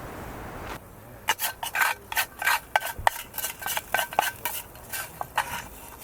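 Metal utensil stirring and scraping in a cooking pan: a quick, uneven run of clicks and scrapes with a faint metallic ring, starting about a second in after a steady hiss.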